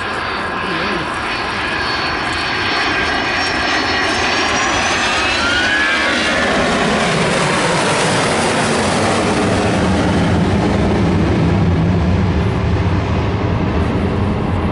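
Boeing 757 jet on a low flypast, its two Rolls-Royce RB211-535E4B turbofans passing overhead: a high whine that falls in pitch as the jet goes by, about six seconds in, then a deep rumble that builds and is loudest near the end.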